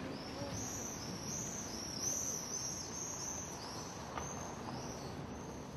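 Small birds chirping: a quick, continuous run of high, arching chirps over faint outdoor background noise.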